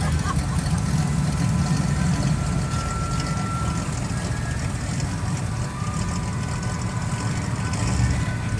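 A motor vehicle's engine idling, a steady low rumble.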